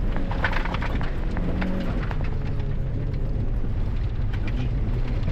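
Rally car's engine heard from inside the cabin, running steadily through a tight hairpin, with a short rise in revs about a second and a half in and faint ticks of gravel against the car.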